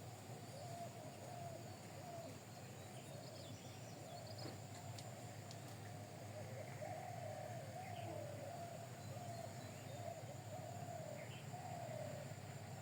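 Birds calling: a low, wavering call repeated every second or so, with a few faint higher chirps, over a steady low hum.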